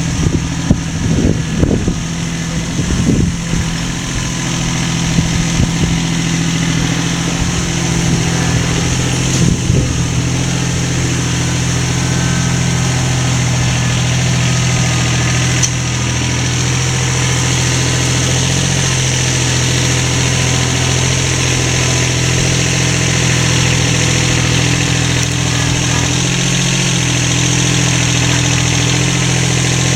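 A motor running steadily with a constant low hum, with a series of sharp knocks in the first few seconds and again about ten seconds in.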